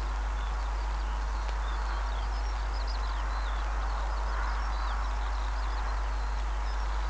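Small birds chirping and trilling continuously, over a steady low rumble.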